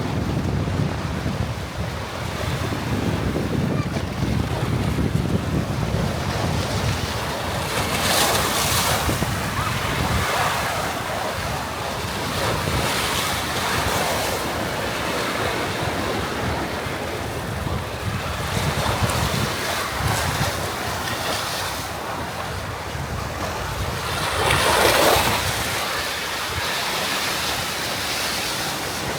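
Sea waves washing onto a beach, with wind buffeting the microphone. The surf swells louder twice, about a quarter of the way in and again near the end.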